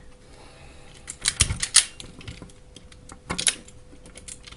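Light clicks and clacks of small hand tools and wire being handled, coming in a few quick clusters.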